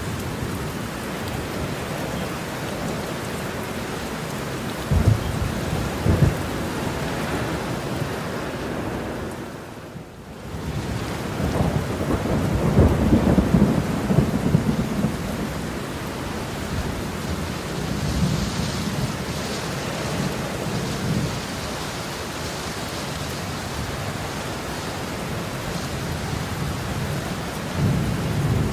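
Heavy rain falling steadily in a thunderstorm. Two sharp thunderclaps come about five and six seconds in, and a longer rolling rumble of thunder follows about twelve to fifteen seconds in, with softer rumbles later. The rain briefly fades around ten seconds in.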